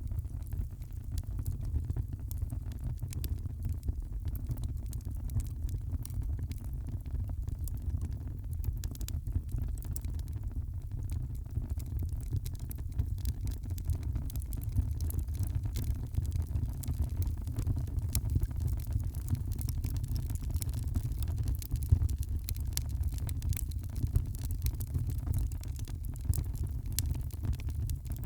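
Wood fire burning in a fireplace: a steady low rumble of flames with frequent small crackles and pops, one a little louder about two-thirds of the way through.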